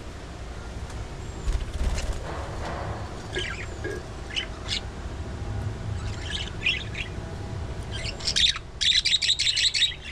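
Budgerigars chirping in short scattered calls, with a loud, fast run of chatter about eight seconds in.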